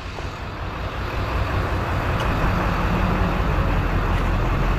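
Truck driving off: engine and road noise rising steadily over the first couple of seconds as it gathers speed, then holding even.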